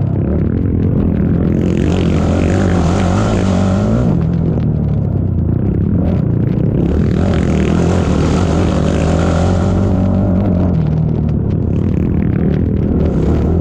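Racing ATV engine running steadily under throttle, with two long stretches of rushing hiss laid over it.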